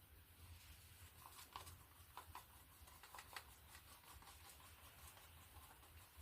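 Near silence: faint room tone with a low hum and a few soft clicks about a second to three seconds in.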